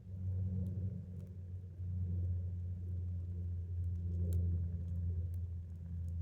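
A steady low rumble, with faint scattered crackles from a wood campfire on top.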